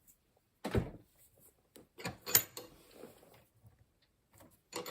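Short, irregular knocks and scrapes of a metal file and screwdriver being worked and handled at a bench vise, in small groups about one, two and five seconds in.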